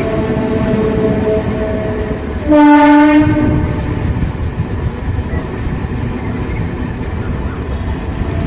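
Train running with a steady rumble, and a single horn blast of about a second, starting about two and a half seconds in, which is the loudest sound.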